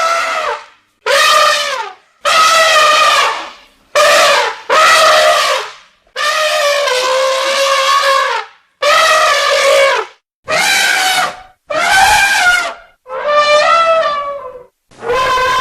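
Goats bleating: a run of about eleven loud, drawn-out bleats one after another with short breaks, the longest about two and a half seconds, some of them wavering.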